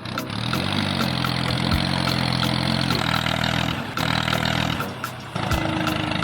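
Vehicle engine starting up, rising in pitch over the first second, then running steadily. About five seconds in, the sound changes to a smoother hum with a single held tone.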